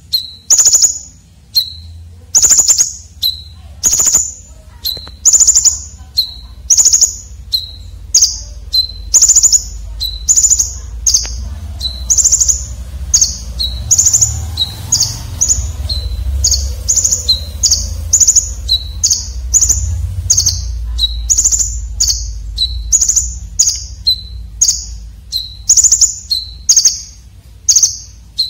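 Konin dada merah (red-breasted konin songbird) calling over and over in short, sharp, harsh high chirps, each ending in a brief lower note, about one to two a second, coming faster in the middle. A steady low rumble lies under the calls.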